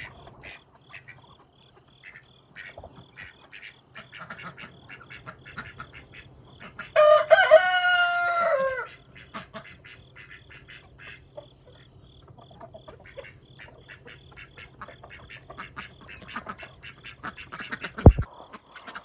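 A flock of chickens clucks and scratches softly, and a rooster crows once, loud, for about two seconds, dropping in pitch at the end. There is a single low thump near the end.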